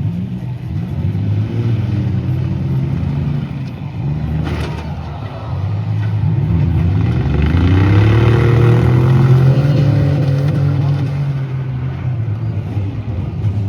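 Minivan engines revving hard under load in a demolition derby, rising in pitch about six seconds in and held high. There is one sharp bang about four and a half seconds in, likely a collision.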